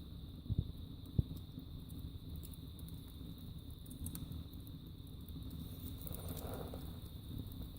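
Wood burning in a fireplace: a steady low rumble of flames with scattered crackles, and two louder pops about half a second and just over a second in.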